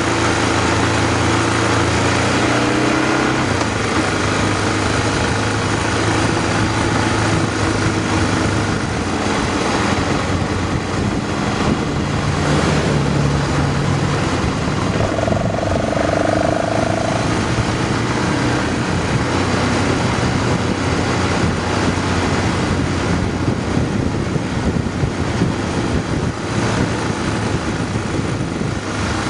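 Motorcycle engine running under way, mixed with heavy wind rush over the microphone. The engine note drops about three seconds in, and a brief steady higher tone sounds about halfway through.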